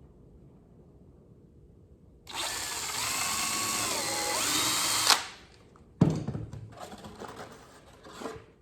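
DeWalt drill driving a screw into the wooden birdhouse for about three seconds, its motor pitch dropping as the screw draws the joint tight, then cutting off suddenly. About a second later a sharp knock, followed by a few lighter knocks.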